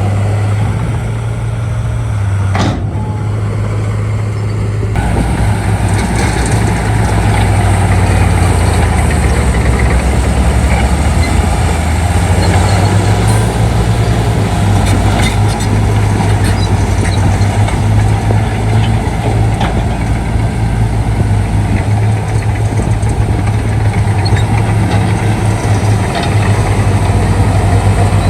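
Shantui D95 crawler bulldozer's engine running steadily, growing louder and fuller about five seconds in, with scattered clicks as the machine works.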